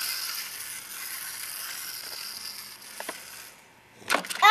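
Small wind-up toy train running on its track, its clockwork motor and wheels making a steady buzzing whirr that stops about three and a half seconds in. A child's voice follows at the very end.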